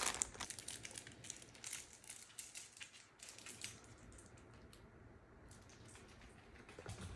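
Soft crinkling and rustling with scattered small clicks, dying down after about three and a half seconds to a faint background.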